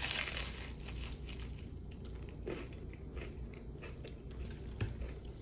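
A crunchy bite into toast, loudest right at the start, followed by close-up chewing with many short crunches.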